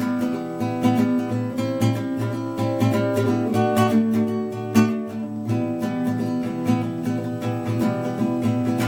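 Acoustic guitar strumming chords in an instrumental passage between sung verses.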